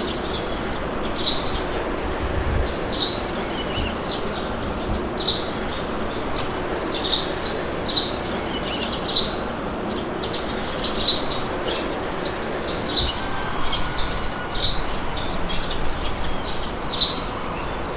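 Steady wind blowing, with short bird chirps about once a second above it.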